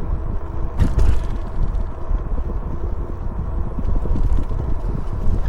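E-bike being ridden: wind rumble on the microphone and road noise, with a faint steady whine and a sharp knock about a second in.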